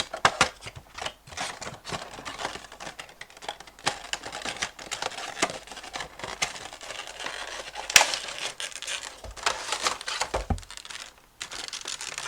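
Toy packaging being handled and opened by hand: crinkling and rustling with many small clicks and taps, and a short lull near the end.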